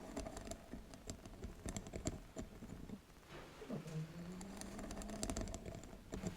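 Tapping and scratching on a bamboo mat: quick, irregular clicks in dense runs, easing briefly about halfway through, with a low steady tone sounding under parts of it.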